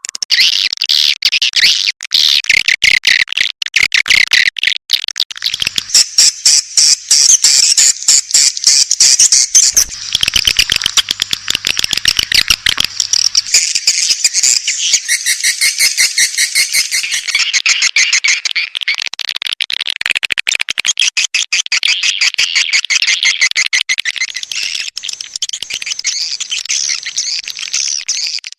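White-nest swiftlet calls: a dense, continuous chatter of rapid chirps and clicking trills. It is a swiftlet call sound (suara panggil), played to draw swiftlets into a nesting house.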